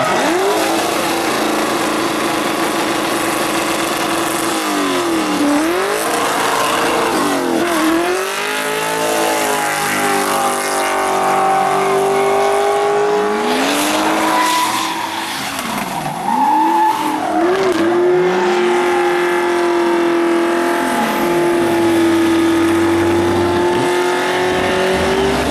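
Drift car's engine revving hard, its pitch swooping up and down again and again, over tyre squeal. Near the end the revs are held high and steady for several seconds.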